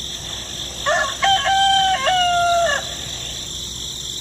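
A rooster crowing once, a single cock-a-doodle-doo of about two seconds, over a steady high hiss.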